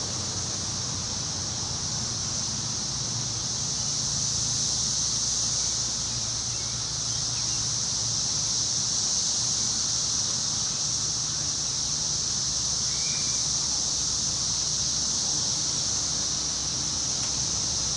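Wind moving through the trees and rustling the leaves, over a steady high-pitched hiss and a low rumble.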